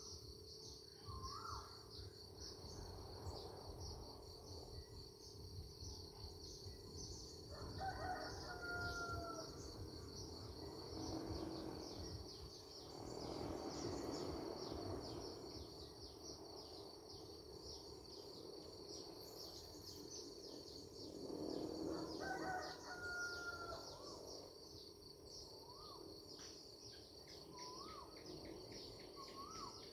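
A rooster crowing twice, about eight seconds in and again about twenty-two seconds in, each crow lasting two to three seconds. Under it runs a steady high-pitched insect trill, with short rising chirps from small birds here and there.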